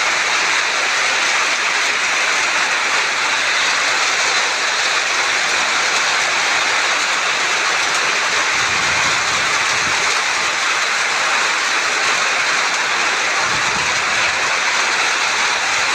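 Rain falling steadily, a loud even hiss, with two brief low rumbles in the second half.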